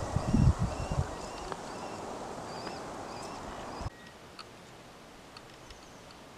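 Open-air ambience: a small bird repeats short chirps over a steady background hiss, and low wind gusts buffet the microphone in the first second. About four seconds in the sound drops to a quieter background with a few faint high ticks.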